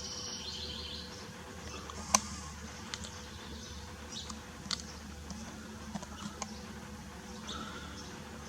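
Faint, scattered bird chirps over a steady low hum, with a few sharp clicks; the loudest click comes about two seconds in.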